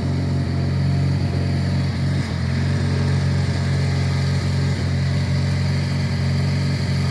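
John Deere 420 garden tractor engine running steadily at a constant speed.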